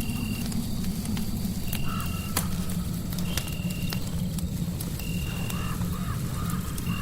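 Fireplace crackling with many sharp pops over a steady low rumble of noise, while a short, high, even-pitched call repeats about every second and a half, along with a fainter wavering call twice.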